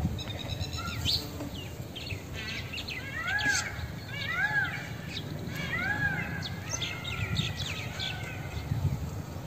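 Birds calling: one call note that rises and falls is repeated several times about a second apart, with scattered higher chirps from other birds, over a steady low background noise.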